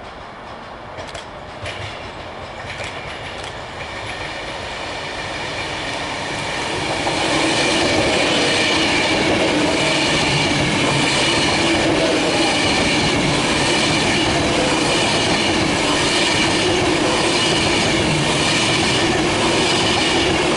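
Class 390 Pendolino electric train approaching and passing close at speed: a rumble that grows over the first seven seconds or so, then a loud steady rush of wheels on rail with high ringing tones above it.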